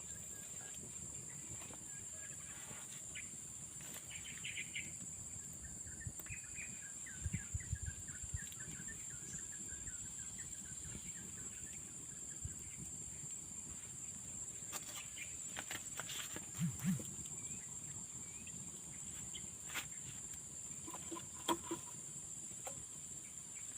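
Garden ambience with small birds chirping in a run of short notes in the first half, over a steady high-pitched hum. Occasional clicks and a few soft knocks come through now and then.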